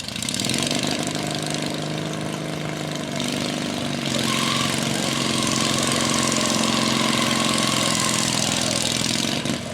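An engine running steadily, growing louder about four seconds in, with a strong hiss over it and a faint steady high tone for a few seconds in the middle.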